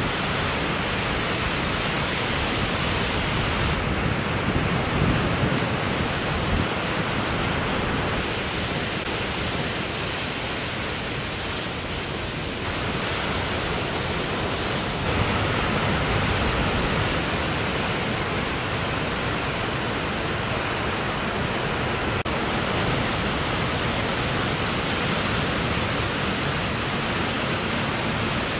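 Steady, even rush of ocean surf, with no single wave crash standing out.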